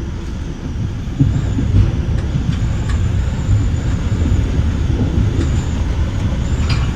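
Metra bi-level commuter car rolling at speed, heard from inside: a steady low rumble from the wheels and track, with a few short knocks.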